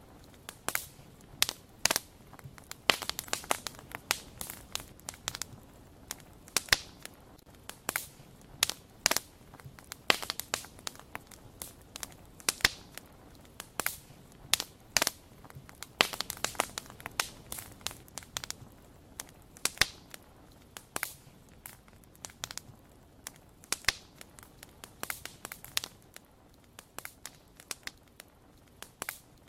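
Wood fire crackling: irregular sharp pops and snaps, sometimes several in quick succession, over a faint steady hiss.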